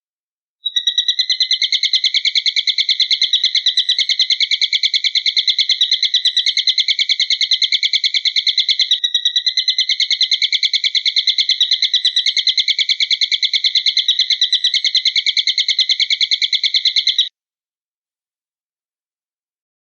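A bird's rapid trilled call, many even notes a second at a fixed pitch, repeating without pause. It starts under a second in, breaks briefly around nine seconds, and stops about seventeen seconds in.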